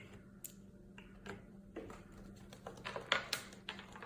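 Light, irregular clicks and taps of small hard objects being set down and knocked on a table top, coming thicker near the end, over a faint steady hum.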